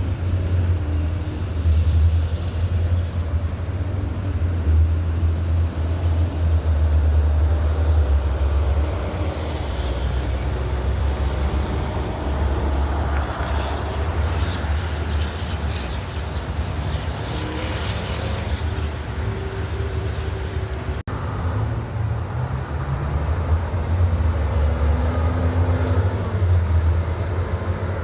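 Heavy trucks and road traffic going by, with a steady deep diesel engine rumble and a few brief hisses.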